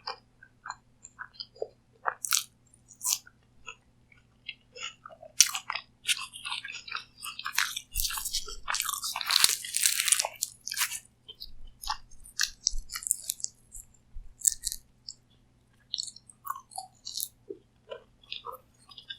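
Close-miked eating: crisp crunching bites and chewing of crispy fried peas kachori pastry. The crunching is densest from about five to eleven seconds in, then gives way to sparser wet chewing clicks.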